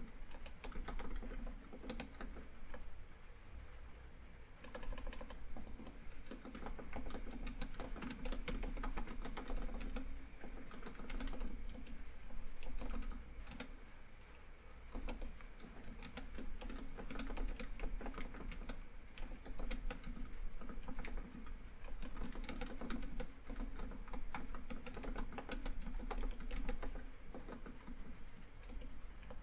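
Laptop keyboard typing in quick, irregular runs of key clicks with short pauses, over a steady bed of rain falling on a tin roof.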